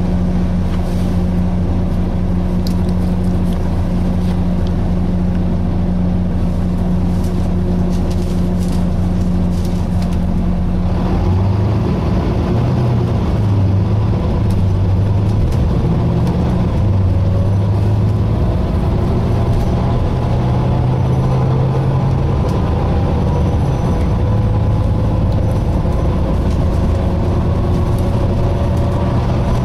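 Interior sound of a Volvo B9TL double-decker bus's six-cylinder diesel and driveline: a steady engine note for about the first eleven seconds, then the note changes and a whine rises steadily as the bus gathers speed.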